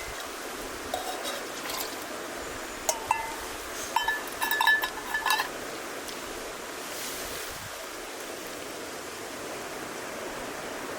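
Steady rushing of a mountain river running high in stormy weather. A few short high-pitched blips come over it, clustered around four to five seconds in.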